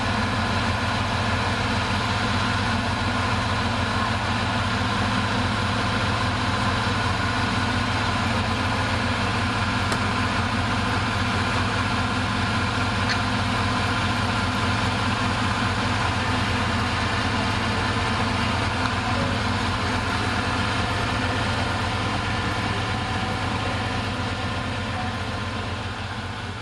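Bulldozer's diesel engine idling steadily, fading down over the last few seconds.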